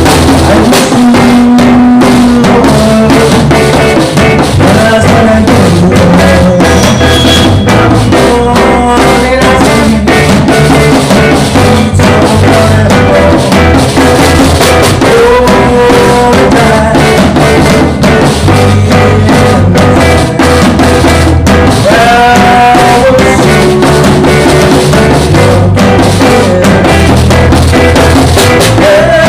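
Live band playing with a drum kit and a voice singing; the recording is loud and crowded, with the parts blurred together.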